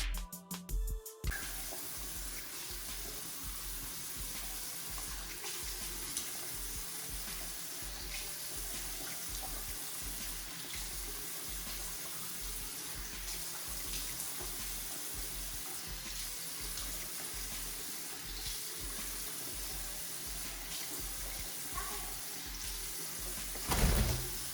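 Steady running water, starting about a second in, with background music carrying a steady low beat underneath.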